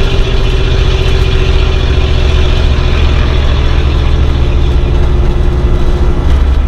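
Old car's engine running steadily while driving: a loud, even low rumble with a faint tone above it that drifts slightly lower.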